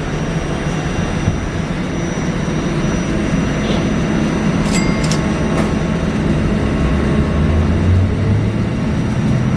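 Buffalo Metro Rail light-rail car setting off, heard from on board: a steady rumble of wheels on rail with a low motor hum that grows stronger over the last few seconds, and a few sharp clicks about five seconds in.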